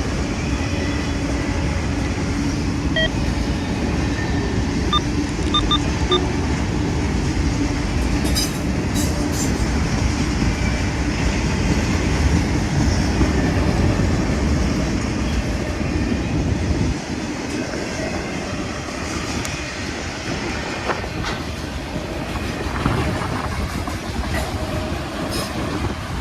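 Freight train rolling past on the rails, a steady rumble of cars and wheels; the deep part of the rumble drops away suddenly about two-thirds of the way through.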